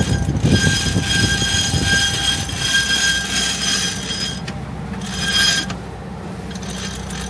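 Single-speed mechanical mainsail winch being cranked by hand under heavy load, squealing in repeated strokes of about one to two seconds as the halyard is wound in.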